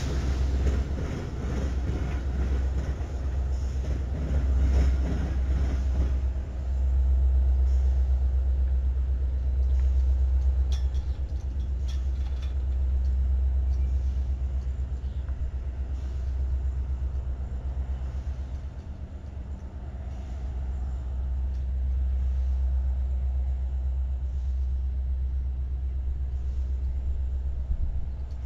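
A train passing: a heavy, steady low rumble, louder in the first few seconds and easing off, with a few sharp clicks around ten to twelve seconds in.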